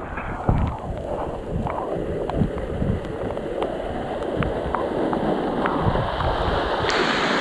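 Rushing stream water with wind buffeting the microphone and small splashing ticks. The rush of water grows brighter and louder near the end.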